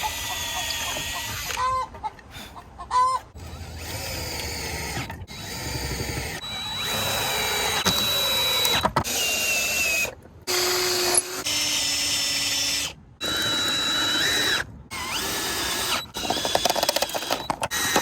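Power drill running in several bursts of a few seconds each, its whine steady in some runs and sliding in pitch in others, each stopping abruptly.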